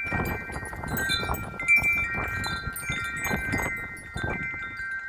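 Several metal wind chimes jangling in strong gusts, many overlapping tones struck again and again, over the rush and buffeting of wind.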